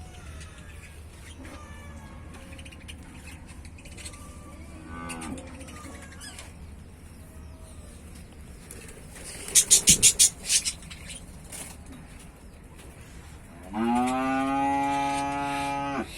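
A cow lowing once, a single steady moo of about two seconds near the end, the loudest sound. Around ten seconds in comes a quick run of loud, shrill bird chirps, over a low steady hum.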